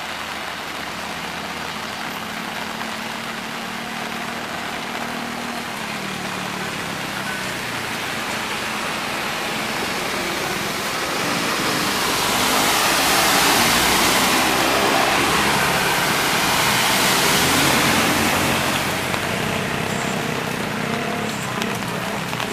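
Steady rain falling on flooded ground and a wet road, growing louder for several seconds in the middle, with a faint low vehicle hum in the first few seconds.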